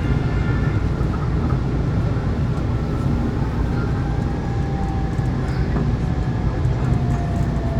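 MRT commuter train running with a steady heavy rumble, with a faint whine that slowly falls in pitch.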